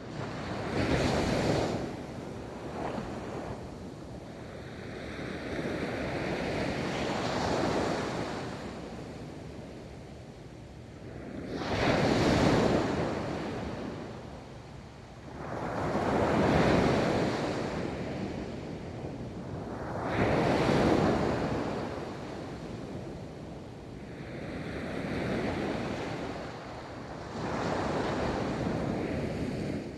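Ocean waves rolling in and washing up a beach, about seven surges at roughly four-second intervals, each swelling and then hissing away.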